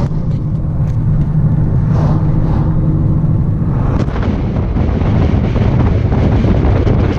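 A car driving, heard from inside the cabin: a steady low rumble of engine and road noise, with a few faint ticks.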